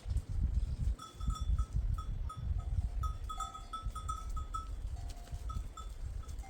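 Sheep bells clinking irregularly as the flock moves, several bells at different pitches with one higher bell sounding most often, over a low rumble.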